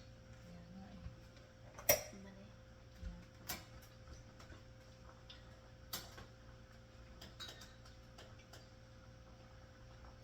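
A few separate, irregular clicks and knocks over a steady faint hum, the loudest about two seconds in.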